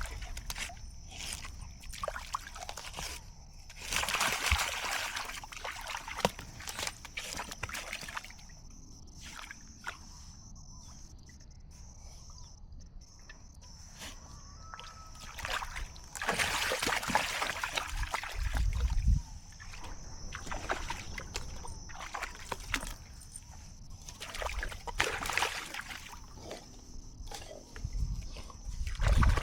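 Water sloshing and splashing in irregular bursts, under a steady high-pitched tone.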